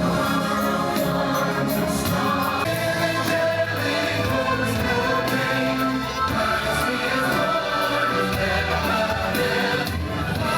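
Choir singing a Christmas carol over instrumental music, played loud and steady.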